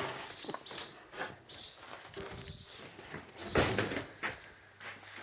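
Barn swallows giving a series of short, high chirps, with rustling and knocking from the camera being handled beside the nest.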